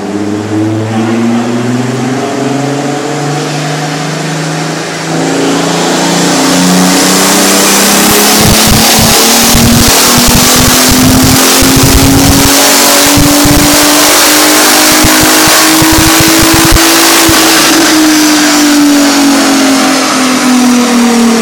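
Turbocharged VR6 engine of a Volkswagen Jetta making a full dyno pull. The engine note climbs steadily in pitch, gets much louder about five seconds in as it comes onto full throttle, peaks about eighteen seconds in, then falls away as the engine winds down.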